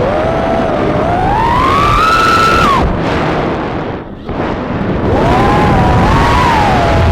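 3-inch FPV quadcopter's brushless motors whining, their pitch rising and falling with the throttle. The throttle is cut about three seconds in, the sound dips briefly, then the motors spool up again.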